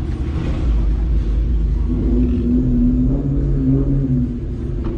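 Car engine running with a steady low rumble; a held engine note comes in about two seconds in and fades a little after four seconds.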